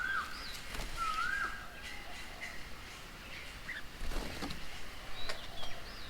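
Birds calling around a bird table: a whistled phrase that rises and then holds level is repeated twice in the first second and a half, with short higher whistles and chatter scattered through the rest.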